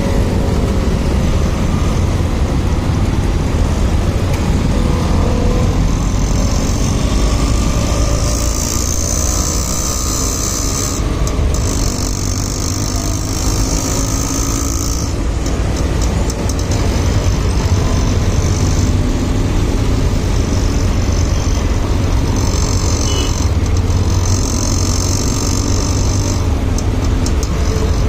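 Motorcycle riding noise: the bike's engine running under a heavy, steady low rumble, with a high hiss that swells for several seconds twice.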